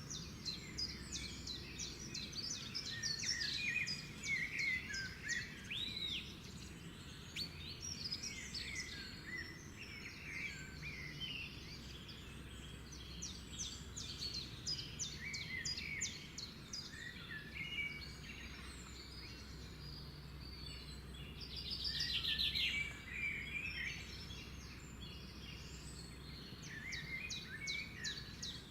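Several birds singing and calling at once, many overlapping chirps, whistles and rapid trills, with one louder rattling trill about two-thirds of the way through, over a steady low background rumble.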